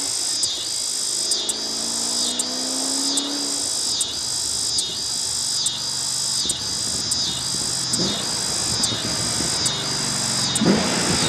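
Crickets chirping steadily, a high trill broken about once a second. A low rumble comes in after about six seconds, and a sudden low sound starts near the end.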